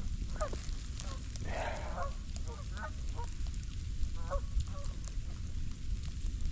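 Geese honking: four or five short calls spread through a few seconds, over a steady low rumble of wind on the microphone.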